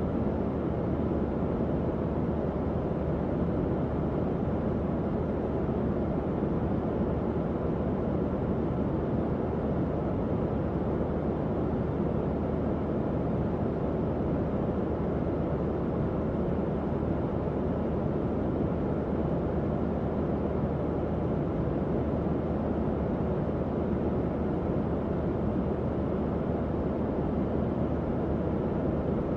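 Tower fan running steadily: an even, low-pitched whoosh of moving air with a faint hum.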